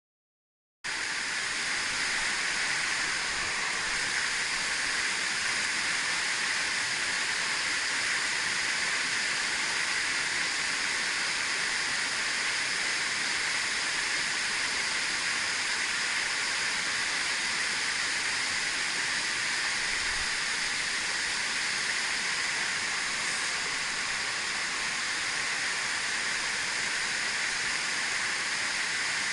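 A mountain stream's rushing water, a steady hiss with no let-up, cutting in suddenly about a second in after silence.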